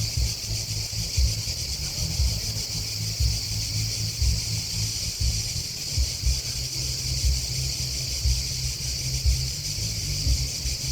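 Grasshoppers and crickets chirping in a steady, dense high-pitched chorus, with an uneven low rumble underneath.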